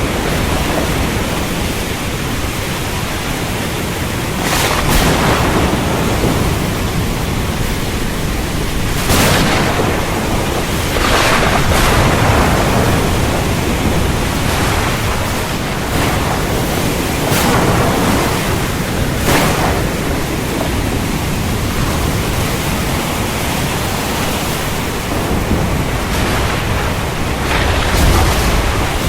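Heavy rain falling steadily, with thunder breaking in several times as short cracks and swells of rumble.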